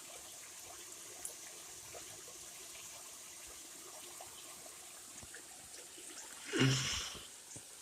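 Faint, steady trickle of a shallow creek's running water, with a few small ticks scattered through it and a brief louder sound near the end.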